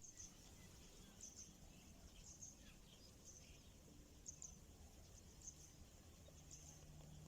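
Near silence: faint outdoor ambience with soft, high chirps repeating about once a second, over a low hum that grows a little stronger near the end.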